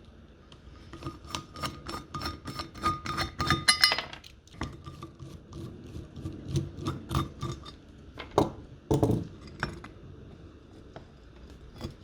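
Small metal parts and tools clinking and tapping: a quick run of sharp clicks over the first few seconds, then scattered clicks with two heavier knocks past the middle.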